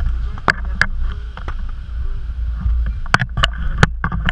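Wind buffeting the microphone with a heavy low rumble, broken by a dozen or so sharp clicks and knocks.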